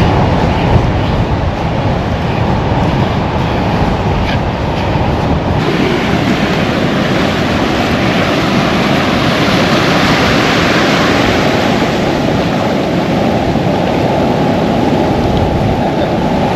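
Wind buffeting the microphone over rushing surf, a steady loud noise that grows brighter from about six seconds in.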